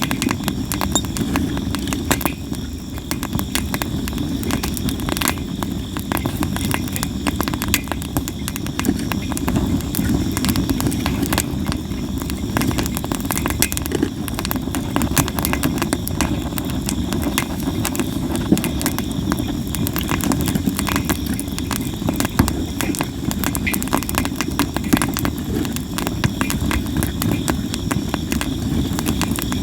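Sawara cypress wood burning in a campfire: a steady low rush of flame with frequent crackles and sharp pops throughout.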